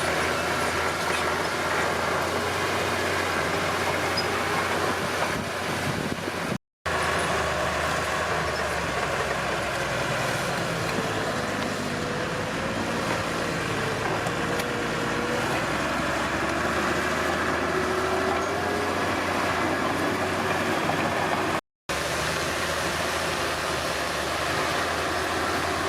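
Komatsu D31P bulldozer's diesel engine running steadily, its pitch wavering slightly under load. The sound cuts out completely twice for a split second.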